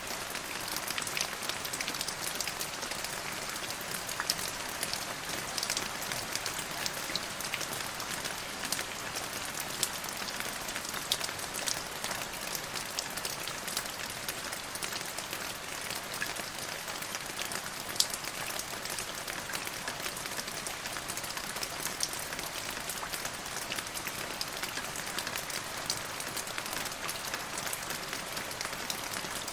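Steady rainfall, with many individual drops pattering and ticking on a surface over an even hiss.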